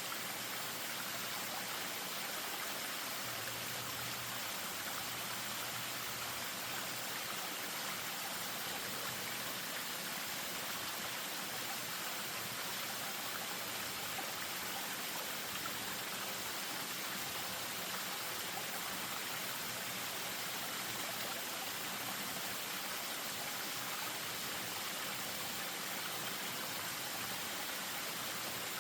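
Spring-fed stream spilling over a small waterfall: a steady, even splashing of running water that does not let up.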